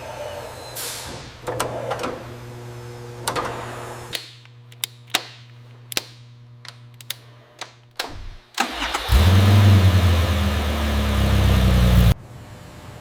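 A run of sharp metallic clicks and taps from engine assembly work over a low steady hum. Then, about eight and a half seconds in, a freshly rebuilt Nissan RB26 engine starts and runs loudly for about three and a half seconds before cutting off suddenly.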